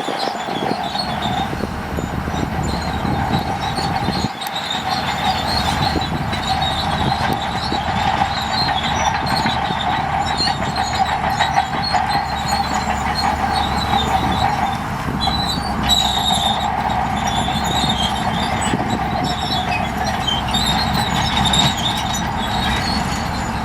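Heavy earthmoving machine running steadily, with a continuous metallic squeal and clatter over the engine.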